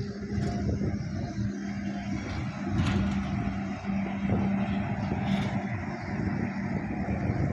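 A motor running: a steady low hum with a rumble beneath it, with two brief hissy sounds about three and five and a half seconds in.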